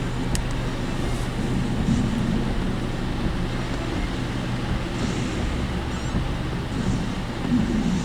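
Steady engine and road rumble inside the cabin of a work vehicle on the move, with the body rattling, and a single sharp click shortly after the start.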